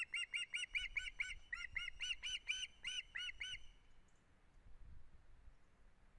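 Osprey calling: a rapid series of short, high, squeaky piping notes, about four a second, which stops about three and a half seconds in.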